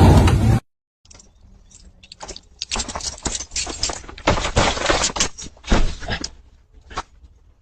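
An irregular run of sharp clattering and cracking knocks that starts about a second in, thickest in the middle and thinning out near the end.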